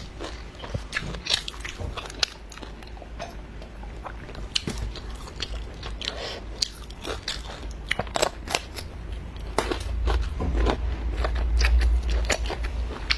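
Close-miked chewing and crunching of food, a stream of irregular crisp clicks as someone bites and chews. A low rumble grows louder in the last few seconds.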